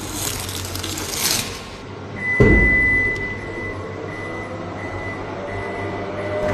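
Car sounds: a noisy rush for about two seconds, then a thump a little after two seconds, followed by a steady high warning tone over a low hum.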